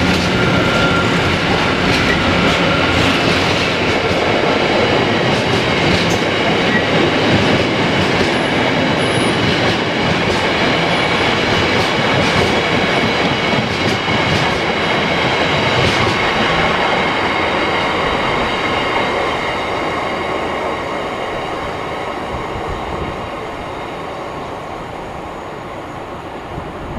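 A train rolling past on the rails, a steady rumble with a faint high squeal from the wheels and a few sharp clicks over the rail joints; it fades away over the last several seconds as the train draws off.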